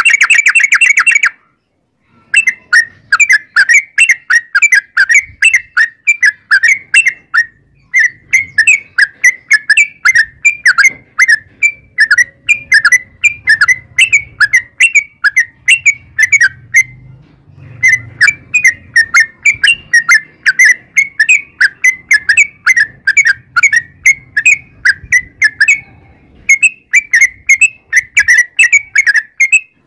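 Yellow-vented bulbul (trucukan) singing long runs of short, quick chirping notes, several a second, breaking off briefly a few times and starting again.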